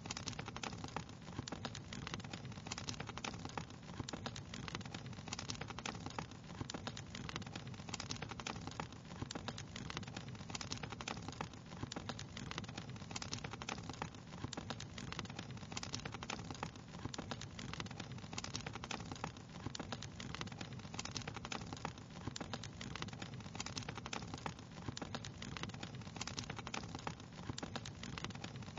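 Wood fire crackling steadily: dense small pops and snaps over a low steady rumble of the flames.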